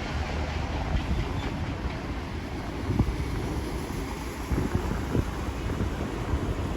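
Wind buffeting the microphone on a moving motorbike, over a steady low rumble of road and traffic noise, with a few short thumps about three seconds in and again near five seconds.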